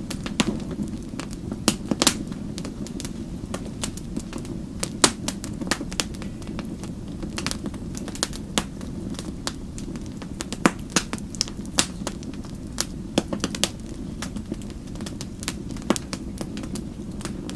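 Wood fire crackling: irregular sharp snaps and pops, a few louder ones, over a steady low rumble of the flames.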